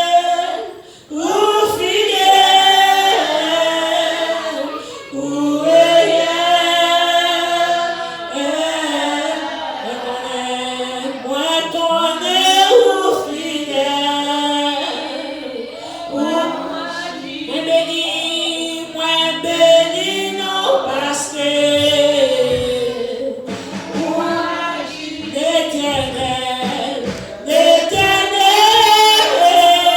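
Congregation singing a worship song together, women's voices most prominent.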